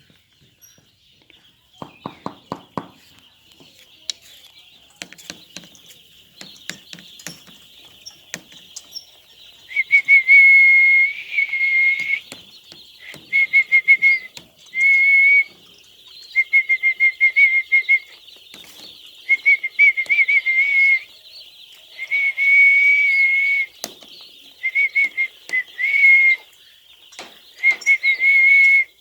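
A flock of poultry calling in a chorus of high calls. About ten seconds in, a loud, slightly wavering whistle-like tone starts, repeated about a dozen times, each one to two seconds long, with scattered clicks and knocks earlier on.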